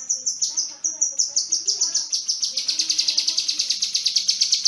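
Kinoi songbird singing a rapid series of sharp, high, falling chirps, several a second. About two and a half seconds in, they run together into a fast rattling trill.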